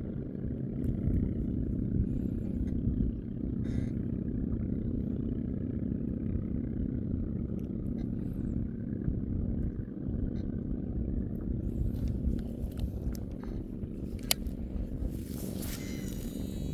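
Small boat engine running steadily at a constant speed, with a few sharp clicks and a brief rush of noise near the end.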